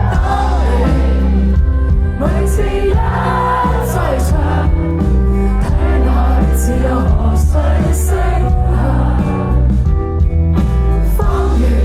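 Live band music: a voice singing over a heavy bass and sustained chords, with a few short high hits now and then.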